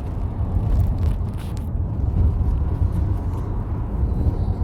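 Car driving: a low, uneven road-and-engine rumble with the level rising and falling.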